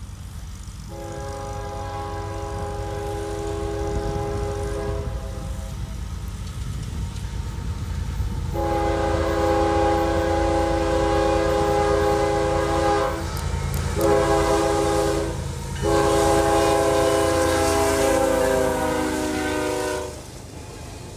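Freight locomotive's multi-note chord horn sounding the grade-crossing signal of long, long, short, long blasts over the rumble of the passing train. The pitch sags slightly at the end of the last long blast as the locomotive goes by.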